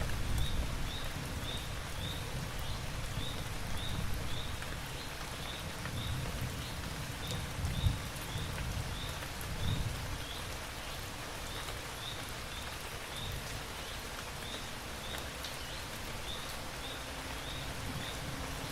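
Steady rain falling, with low rumbles of thunder swelling and fading. Over it a short high chirp repeats about twice a second.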